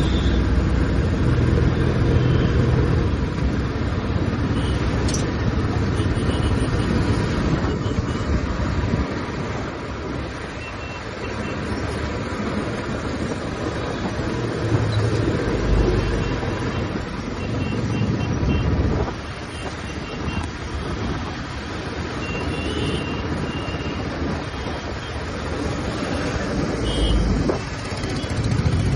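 Royal Enfield Classic 350's single-cylinder engine and exhaust running under way, over wind and road noise. The engine note drops off twice, about nine seconds in and again just after nineteen seconds.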